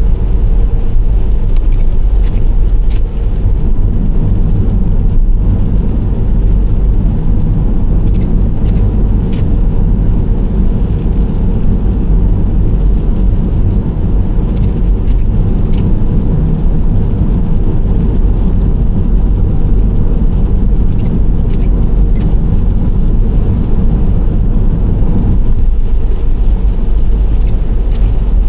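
Steady driving noise of a Nissan Serena C25 minivan cruising at an even pace: a constant low rumble of engine and tyres on the road. Faint light clicks come in small clusters every few seconds.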